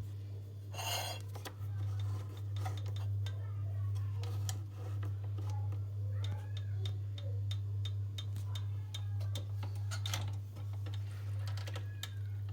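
Kitchen handling sounds: scattered clinks, taps and knocks of dishes and utensils, with a short scrape about a second in, over a steady low hum.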